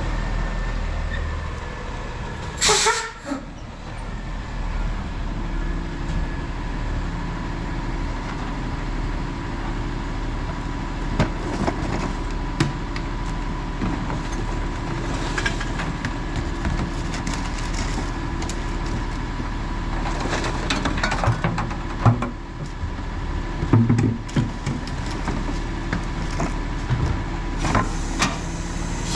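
Autocar ACX rear-loader garbage truck running steadily, with one loud air-brake hiss about three seconds in. Scattered knocks and clatters follow through the rest of the stretch.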